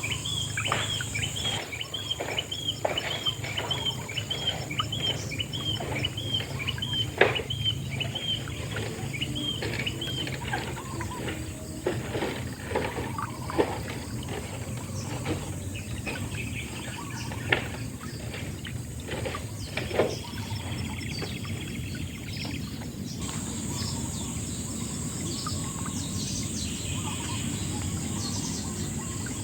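Outdoor nature ambience: a bird repeats a short high chirp about twice a second for the first ten seconds, over a steady low rush with scattered sharp clicks. A thin, high, steady insect-like whine drops out early on and comes back about two-thirds of the way through.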